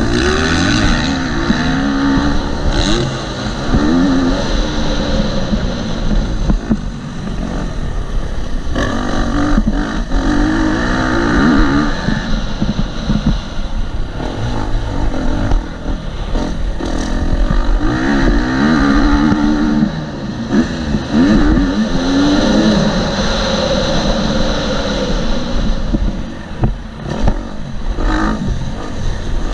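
Four-stroke single-cylinder engine of a KTM 250 SX-F dirt bike under riding load, revving up and dropping back over and over as the rider accelerates and shifts through the gears on a motocross track. Low wind rumble runs under the engine.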